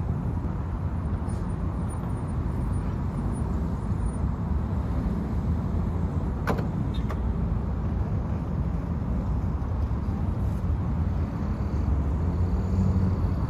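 Steady low rumble of a car being rolled for a push start, its engine not yet running, with a sharp click about six and a half seconds in.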